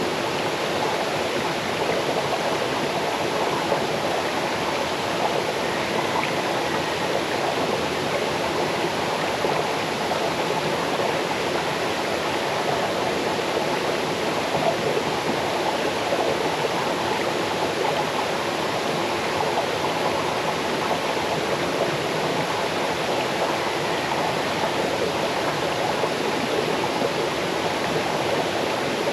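Small waterfall cascading over rocks into a forest stream: a steady, even rush of water with a babbling texture.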